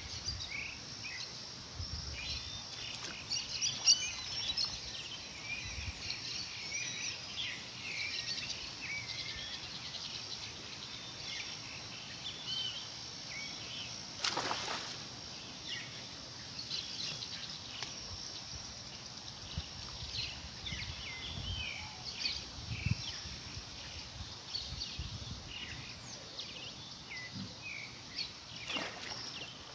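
Birds chirping and calling over steady outdoor background noise: many short high calls throughout. Two brief noisy swishes come about halfway through and again near the end.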